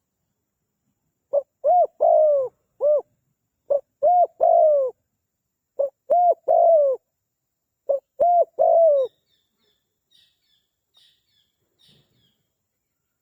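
Spotted dove (tekukur) cooing: four phrases of three or four deep notes each, spaced about two seconds apart. Faint high chirps of a small bird follow near the end.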